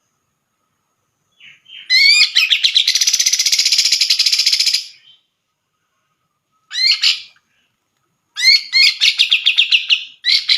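Grey-cheeked bulbul (cucak jenggot) singing loud phrases of rapid, repeated notes: a long phrase starting about a second and a half in, a short burst in the middle, and another fast phrase near the end.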